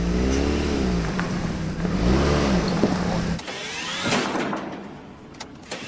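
A car engine revving twice, its pitch rising and falling each time, as the car is manoeuvred to turn around on a snowy track. About three and a half seconds in, it cuts to a quieter sound with a faint rising whine.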